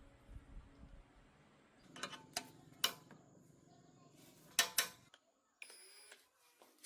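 Several sharp clicks and clinks over a low background hum, the loudest pair about four and a half seconds in; the background cuts off abruptly about five seconds in.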